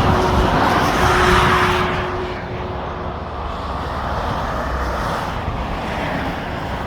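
Motorway traffic passing below. A vehicle goes by close, loud for about the first two seconds, with a steady hum that fades out about three seconds in, then an even rush of traffic.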